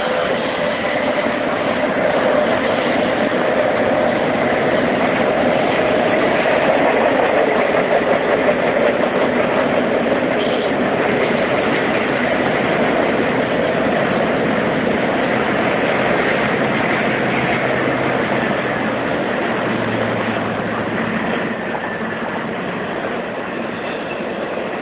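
Double-stack intermodal well cars of a CSX freight train rolling past on curved track: a steady rumble and rail noise that fades slightly near the end as the tail of the train moves away.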